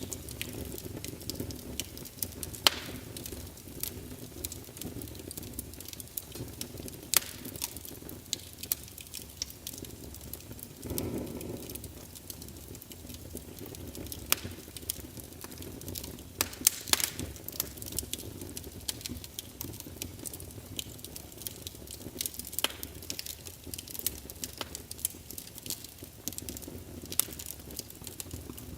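Wood logs burning in a fireplace: irregular crackles and sharp pops over a steady low rush of flame, with a brief louder rushing swell near the middle.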